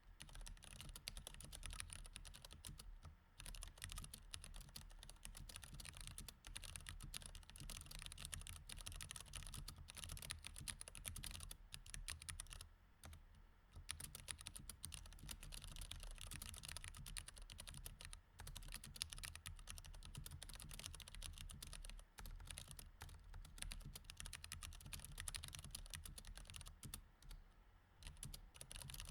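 Mechanical keyboard with Cherry MX Red switches being typed on in quick, irregular runs of key clicks, broken by a few short pauses.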